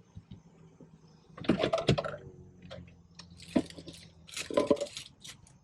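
Close-up mukbang eating sounds: wet mouth clicks and smacks from eating soft ice cream with pie pieces, in three short bursts.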